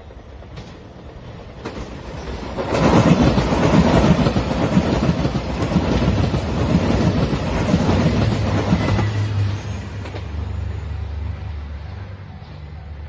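A JR Shikoku 2700 series diesel limited express passing close by at speed, its wheels running over the rails and its engines working. The sound builds over a couple of seconds, stays loud for about six seconds, then falls away to a low steady hum.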